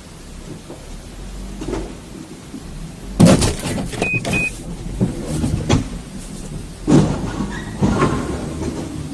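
A road vehicle running, with a series of loud clattering knocks and bangs, the loudest about three seconds in, and two short high beeps shortly after it.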